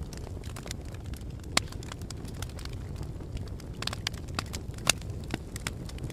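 Fire crackling: many sharp pops and snaps over a steady low rumble of flames, with two louder pops, one about a second and a half in and one near five seconds.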